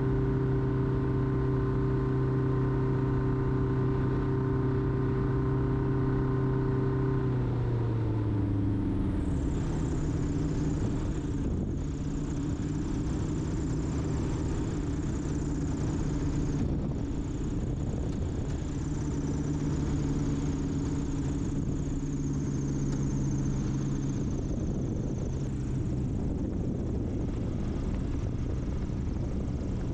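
Light single-engine propeller airplane in flight, its engine and propeller running steadily. About seven seconds in, the pitch drops over a couple of seconds as the throttle is pulled back, and it then runs on at a lower, steady pitch.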